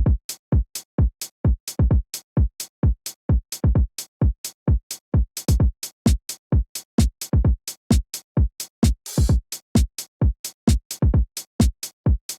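Electronic music opening on a drum-machine kick drum alone, hitting rapidly at about four beats a second, each beat dropping sharply in pitch. A short hiss swells briefly about nine seconds in.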